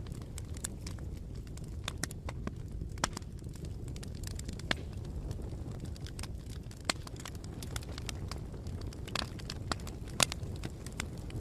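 Wood fire burning: a steady low rumble with scattered sharp crackles and pops, the loudest pop about ten seconds in.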